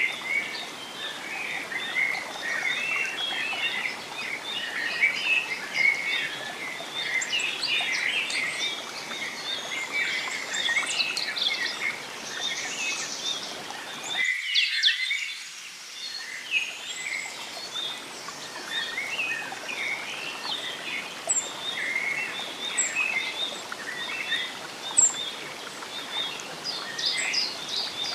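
Forest bird chorus: many birds chirping and calling busily over a steady low rushing background. The background drops out suddenly about halfway through and fades back in over a couple of seconds. A few thin, high, quick chirps come near the end.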